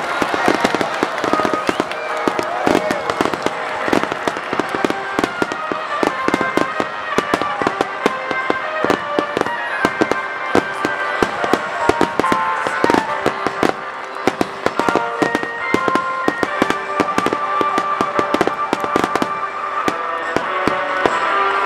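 Fireworks bursting and crackling in rapid succession, many reports a second, during a dense display. A melody plays underneath.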